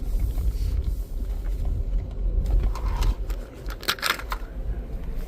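Car moving slowly, with a steady low engine and road rumble. A short cluster of clicks comes about four seconds in.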